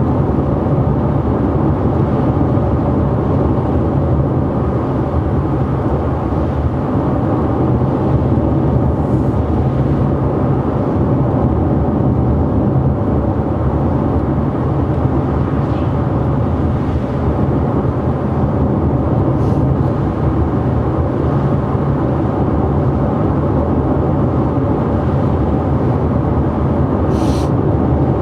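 Ford Fusion sedan driving on a rain-wet road: a steady low drone of tyre, road and engine noise, with a few faint brief ticks.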